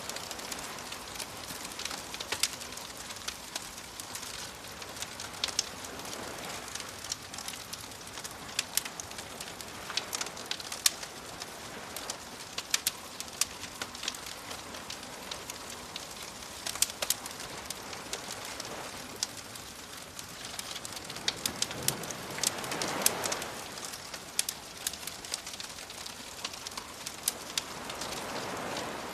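Wood fire crackling with frequent sharp pops, layered over waves washing on a shore. A wave swells up about three quarters of the way through and another near the end.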